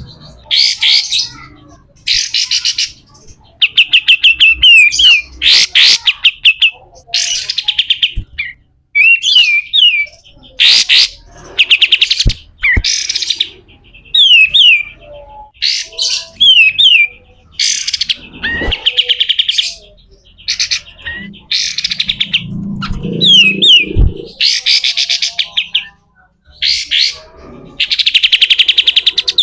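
Kapas tembak bird giving harsh, rasping besetan calls in loud bursts about once a second, mixed with short down-slurred whistled notes.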